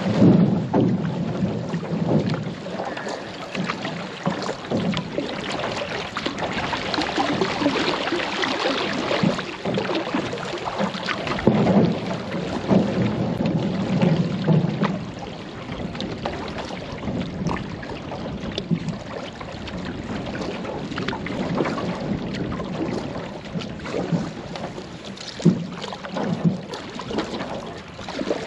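Paddles stroking and splashing through the water beside an aluminum canoe, with a few sharp knocks along the way.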